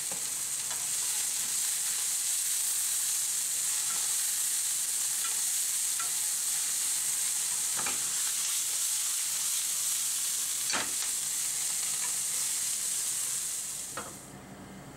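Sliced Japanese long onion and ginger sizzling steadily in a nonstick frying pan as they are stirred, with a few sharp clicks. The sizzle cuts off suddenly near the end.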